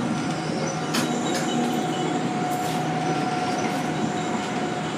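MTR Disneyland Resort Line train heard from inside the carriage while running along the track: steady running noise with a steady whine, and a couple of faint clicks about a second in.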